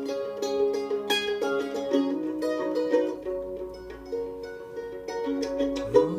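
Live music: a plucked string instrument plays an instrumental passage of melodic notes between sung lines. Near the end a sung note rises in.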